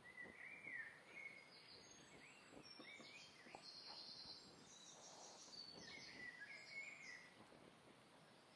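Faint birdsong of short chirping and whistled notes over quiet outdoor background, with a few soft knocks and rustles.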